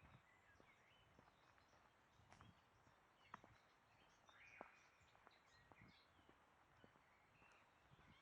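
Near silence in open country, with faint bird chirps and calls coming and going, one held a little longer about four and a half seconds in, and a few scattered soft clicks.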